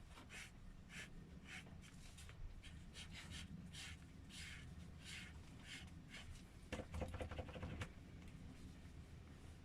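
Black marker pen drawing short stripes on paper, a faint scratchy stroke about twice a second. A brief louder scuffle comes about seven seconds in.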